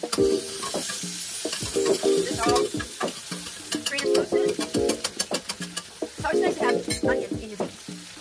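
Chicken pieces shallow-frying in oil in a skillet: a steady sizzle with crackles and pops. Background music plays underneath.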